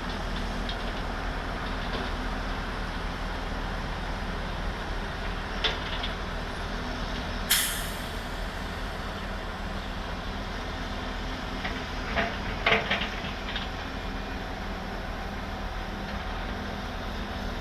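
Steady low rumble of a running vehicle, with a few light knocks and one short sharp hiss about seven and a half seconds in.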